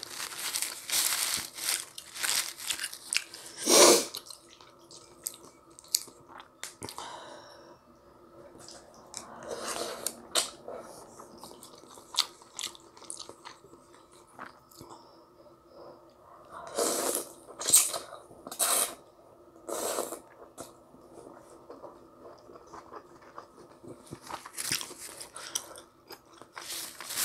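Close-miked eating sounds of spicy ramyun noodles being chewed, with many short noisy bursts between quieter stretches and one louder burst about four seconds in.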